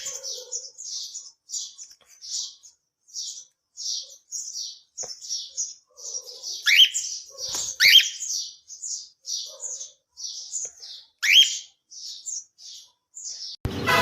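A small pet parrot chirping: a steady run of short, high chirps at about two a second, with a handful of louder, rising calls mixed in. Music comes in just before the end.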